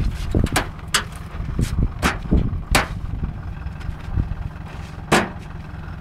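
Pumpkins being loaded, landing with about five sharp thuds, the loudest near the end, over a steady low rumble of wind and vehicle.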